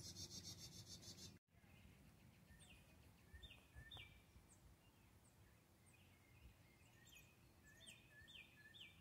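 Faint outdoor ambience with distant birds chirping: short, high calls in loose clusters, a few at a time, around three to four seconds in and again near the end. There is a brief dropout about one and a half seconds in.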